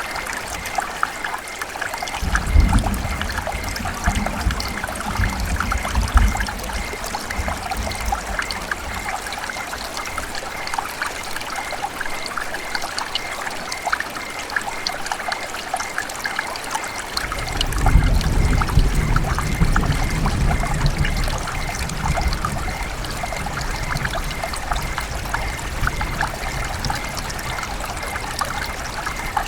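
River water running and trickling steadily, with many small splashes. A low rumble swells in about two seconds in and again from about seventeen seconds, each lasting several seconds.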